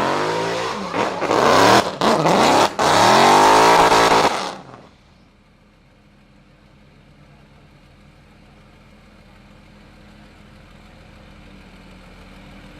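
A car engine revving hard at close range, its pitch climbing and dropping repeatedly through gear changes, then cutting off suddenly about four and a half seconds in. After that only a faint, steady engine hum remains, slowly getting louder.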